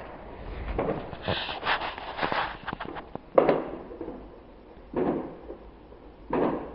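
Fireworks going off: a run of quick crackling reports in the first couple of seconds, a single sharp bang about three and a half seconds in that is the loudest, then two more bursts of bangs near the end.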